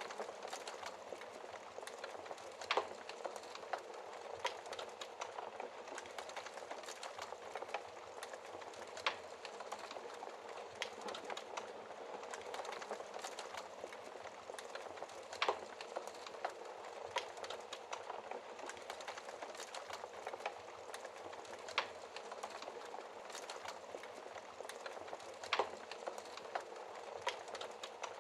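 Wood fire in a fireplace crackling: a steady soft hiss of burning wood with constant small irregular crackles and an occasional louder pop, about five in all.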